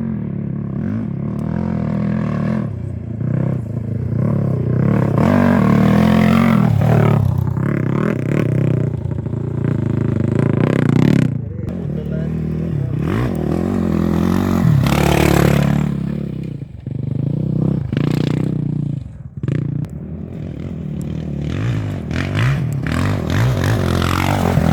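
Off-road race motorcycle engines revving hard, the pitch climbing and dropping again several times as bikes accelerate past.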